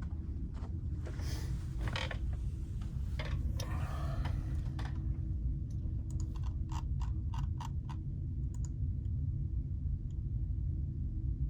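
Rustling for a few seconds, then a quick run of about a dozen clicks like typing on a computer keyboard, over a steady low hum.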